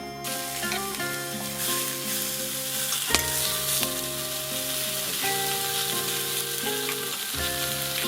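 Food sizzling as it fries in a hot pan, a steady hiss that starts abruptly, with a melodic background music track playing over it.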